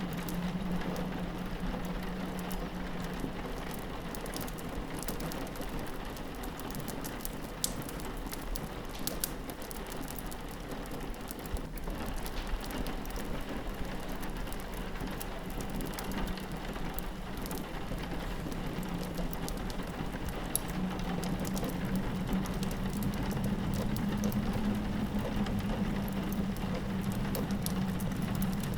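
Steady rain pattering on a window glass, mixed with the sharp scattered pops of a crackling wood fire and a low, steady wind howl that swells slightly near the end.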